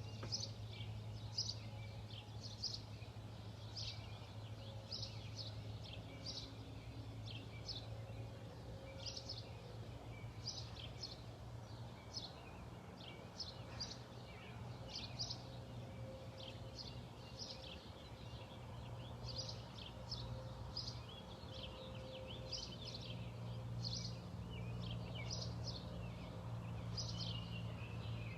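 Small birds chirping: short, high calls about once or twice a second, over a steady low hum.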